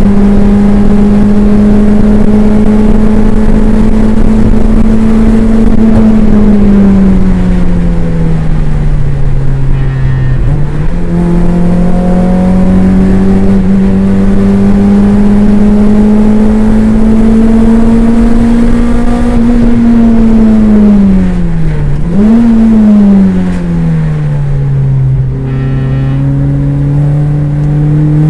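Toyota MR2 race car's engine heard from inside the car at racing speed: it is held high on the straights, drops in pitch twice as the car slows for corners, and picks back up each time. A quick rise and fall in the note about three quarters of the way through matches a throttle blip on a downshift.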